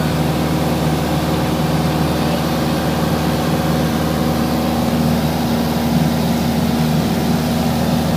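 Steady drone of an airplane's engines heard from inside the aircraft, an even hum with several held tones and no change.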